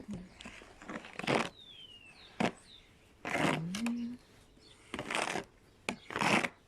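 Strokes clearing snow off a car, about half a dozen short, irregular swipes. Some of the snow has frozen to ice and no longer sweeps off.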